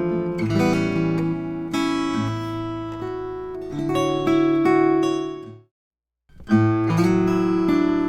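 Recorded acoustic guitar strumming chords, run through an optical compressor plugin. A little past the middle the audio cuts out to silence for about half a second, then the strumming starts again.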